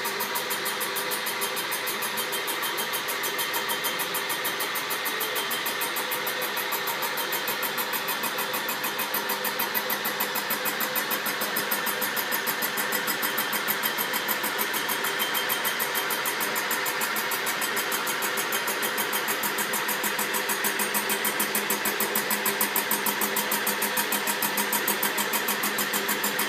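Cylinder-head resurfacing machine taking the final face cut across a GTR cylinder head's deck, about 0.25 mm of material, running steadily with a fast, even pulsing hum that grows slightly louder through the pass.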